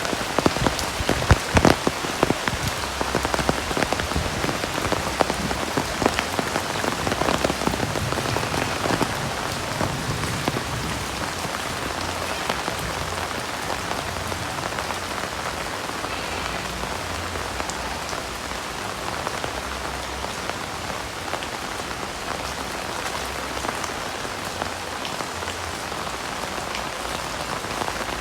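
Heavy rain falling, a dense steady hiss with many sharp, close drop hits that are strongest and most frequent in the first ten seconds or so.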